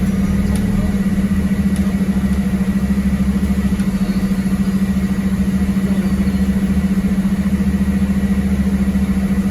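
MAZ-206 city bus engine running steadily at an unchanging pitch, a constant low drone with a fast, even pulse, heard from on board the bus.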